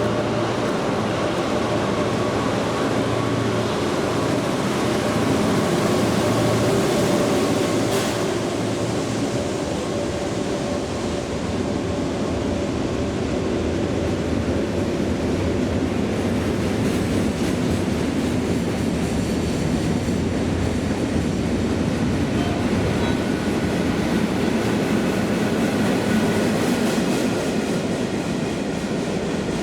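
A diesel-hauled rail train rolling steadily past, its wagons of track rail running over the rails, with a low engine hum in the first few seconds. There is a sharp clack about eight seconds in and faint high-pitched wheel squeal in the second half.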